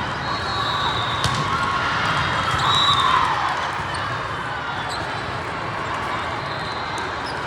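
Volleyball hall during play: balls being struck and bouncing, a few sharp smacks, and short high sneaker squeaks over a steady din of players and spectators echoing in the gym.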